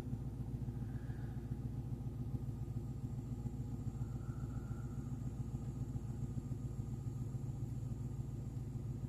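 The Daytona's engine idling steadily with a low, even rumble as it warms up.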